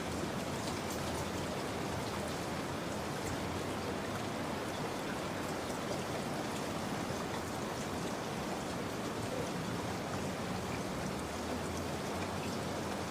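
Steady rain falling, a continuous even patter with scattered faint drop ticks.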